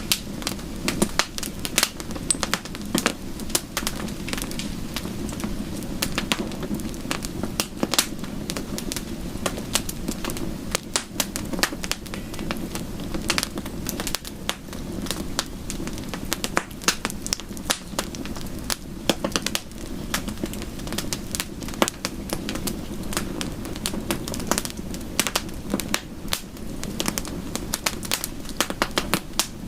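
Bonfire crackling: frequent irregular sharp pops and snaps over a steady low rush of the burning wood.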